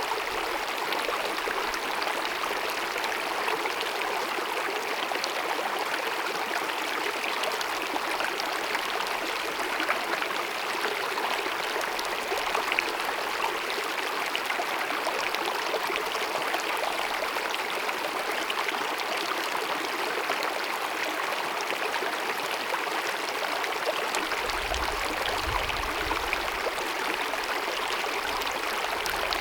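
Small glacier-fed mountain meadow stream cascading and babbling in a steady, even rush of water, with a brief low rumble near the end.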